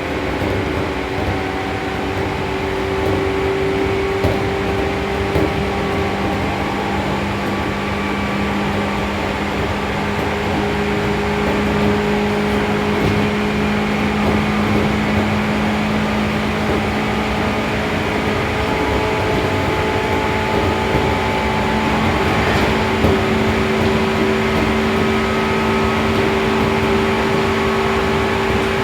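Seibu New 2000 series electric train running at speed between stations, heard from inside the car: steady wheel-on-rail rolling noise with an even, steady-pitched hum from the traction motors and gearing.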